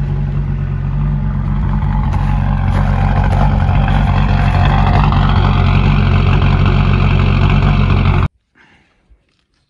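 BMW diesel engine running steadily after a cold start in severe frost, growing slightly louder over the first few seconds. The sound cuts off suddenly about eight seconds in, leaving only a few faint clicks.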